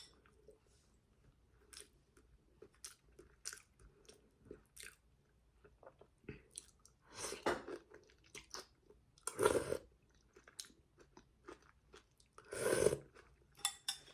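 A person chewing and biting food close to the microphone, with frequent small clicks of the mouth. Three louder, longer eating noises come about 7, 9 and 12 seconds in.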